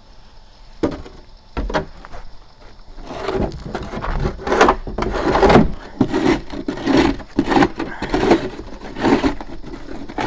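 Snow shovel scraping and pushing through snow in a run of short, repeated scrapes, about one or two a second, starting about three seconds in after a couple of sharp knocks.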